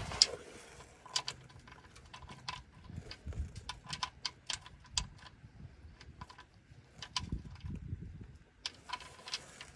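Irregular small metallic clicks and taps of hand tools and parts being handled during work on a car, some with a short ringing tone, over a few soft low knocks.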